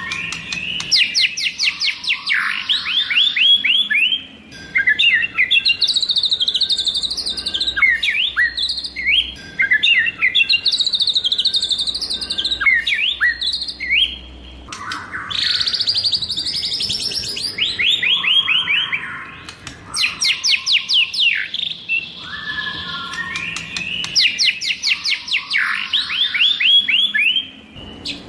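White-rumped shama singing a loud, varied song of whistles and trills. Runs of quick descending notes come back three times, with more varied phrases between them.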